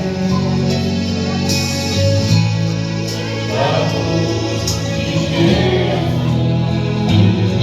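Christian gospel music with voices singing together over sustained instrumental chords.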